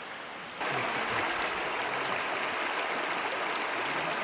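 River water rushing, a steady noise that jumps abruptly louder about half a second in.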